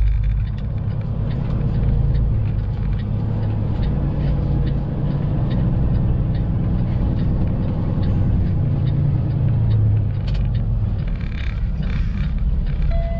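Semi truck's diesel engine running at low speed, heard from inside the cab while the truck backs in, the engine note rising and falling a little.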